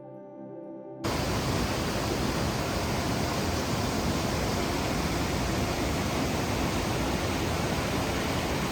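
Waterfall on a river rushing in a steady, even noise, starting with a sudden cut about a second in after a moment of soft background music.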